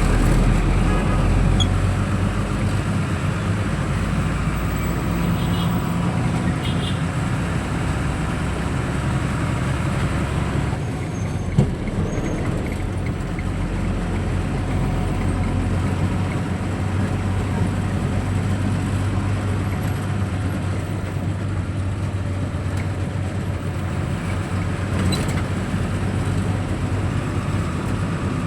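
Motor vehicle running steadily with road noise, a low engine hum throughout. A single sharp click about midway.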